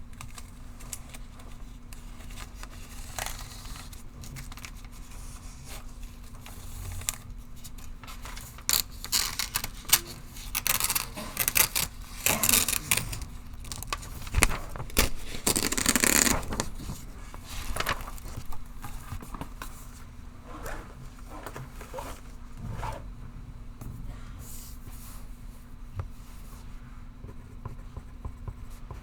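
Pencil scratching on paper in irregular strokes, louder and denser for several seconds around the middle, over a steady low hum.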